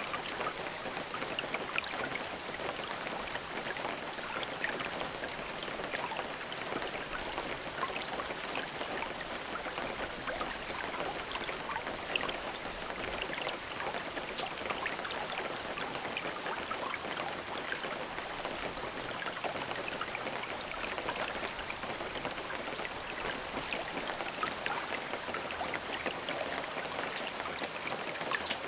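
Steady rain falling, with many small separate drops ticking against the even hiss.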